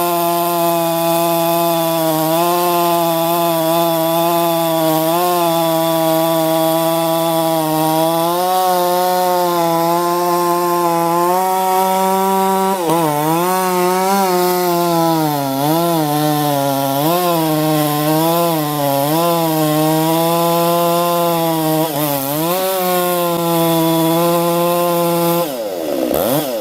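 Chainsaw running at full throttle under load through a cut, its pitch holding steady at first, then sagging and recovering again and again as the chain bites into the wood. About a second before the end the sound changes abruptly to a different engine note rising in pitch.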